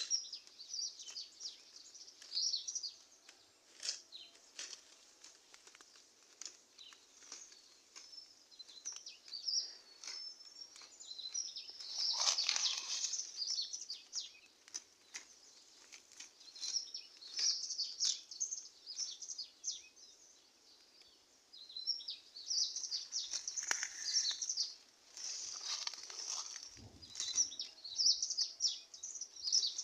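Tea bush leaves rustling, with many small clicks as tea is plucked by hand, while birds chirp.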